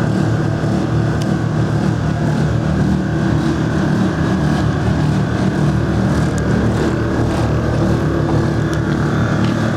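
Onboard electric air compressor for a pickup's air-bag suspension running steadily, left switched on to build air pressure back up after the truck has been lowered.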